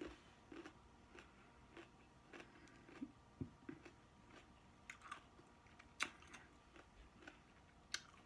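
Faint close-up chewing of food: soft, irregular crunches and wet mouth clicks, about one or two a second.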